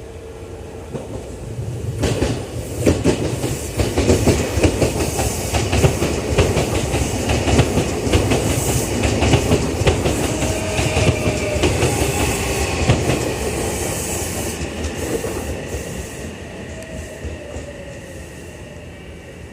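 Odakyu 3000-series electric train running into the station, its wheels clacking over the rail joints. The sound builds to its loudest through the middle, then fades as a thin falling whine comes in near the end while the train slows.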